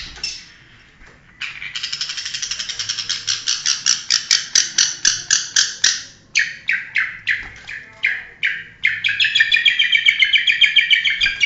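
Long-tailed shrike (cendet) singing. A fast run of rapidly repeated high notes is followed by slower, separate notes, then another fast trill near the end.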